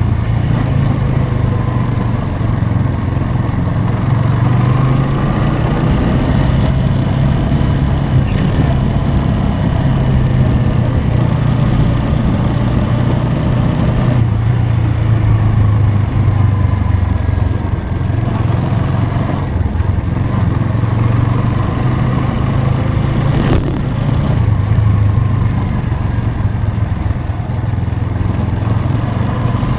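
Motorcycle engine running steadily while riding, its revs rising and falling slightly. A single sharp click about two-thirds of the way through.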